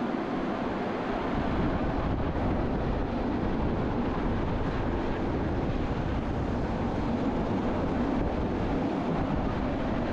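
Steady noise of a Bernina line train running along the track, heard from an open observation carriage, with wind on the microphone.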